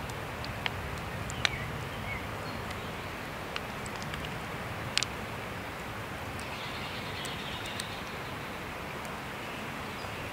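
Campfire crackling: a steady hiss with a few sharp, scattered pops, the loudest about five seconds in.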